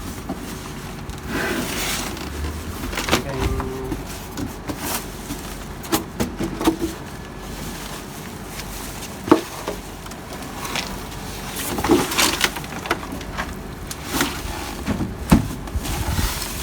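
Irregular knocks, clicks and short scraping rustles of hands-on installation work on an air conditioner, with the sharpest knocks about nine and fifteen seconds in.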